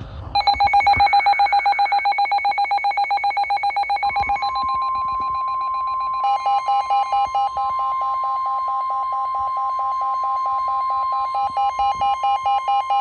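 Weather radio alarm sounding for a severe thunderstorm warning: rapid electronic beeping, joined about four seconds in by the steady NOAA Weather Radio warning alert tone, which runs on beneath the beeps.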